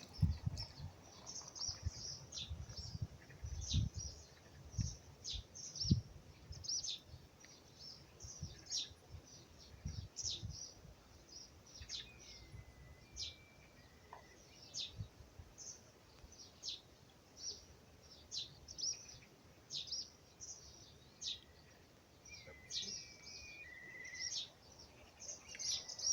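Small songbirds chirping, short high chirps repeating about twice a second, with a few lower slurred whistles in the middle and near the end. Low rumbling bumps, like wind or handling on the microphone, stand out in the first few seconds.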